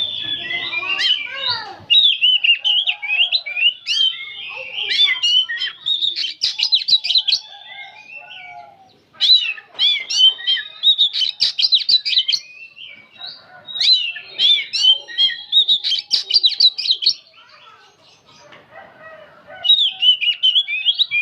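Oriental magpie-robin singing in fast chattering runs of quick up-and-down whistled notes, four runs with short pauses between them.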